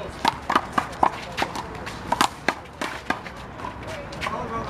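One-wall handball rally: a rubber handball slapped by open hands and rebounding off the wall and pavement. It makes a quick, irregular run of sharp smacks, about a dozen in under five seconds.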